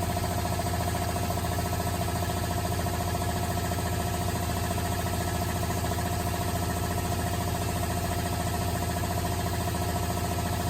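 Compressed Air Systems CA3 series 15-horsepower electrically driven industrial air compressor running steadily: a constant machine hum with fast, even pulsing from the compressor pump and a prominent mid-pitched tone.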